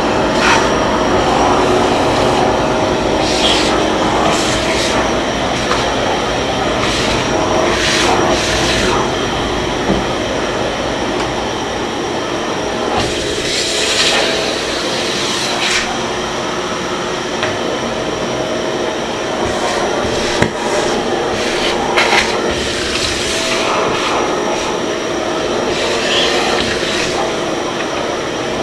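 Karcher MV 6 P Premium wet-and-dry vacuum cleaner running steadily, with repeated short hissing surges of suction as the nozzle works over surfaces.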